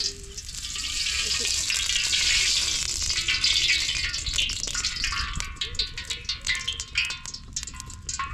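Food frying, a dense sizzle that thins into separate crackles and pops about five seconds in.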